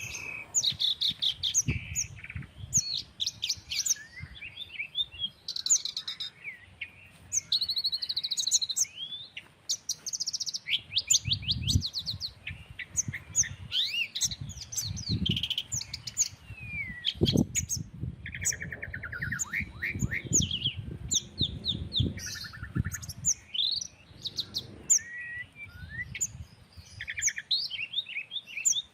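Several small birds chirping and calling over one another in quick trills and short whistles, with a low rumble of wind on the microphone coming and going.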